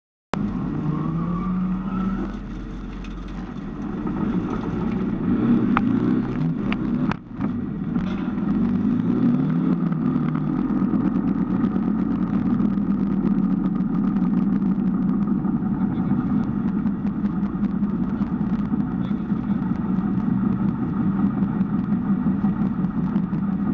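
VW Golf IV 4x4 rally car's 1.9 TDI four-cylinder turbo-diesel (ARL engine), heard from inside the cabin while driving. It revs up, drops briefly about seven seconds in, rises and falls again, then runs steadily under load.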